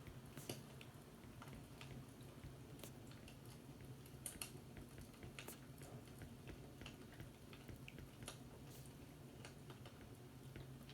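Faint fireplace crackling: irregular small pops and snaps over a low, steady hum.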